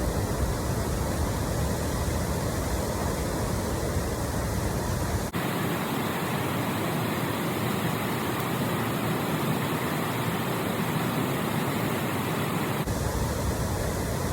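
Loud, steady rush of a waterfall recorded on a phone microphone. A little after a third of the way in the deep rumble drops out for several seconds, leaving a thinner hiss, then returns near the end.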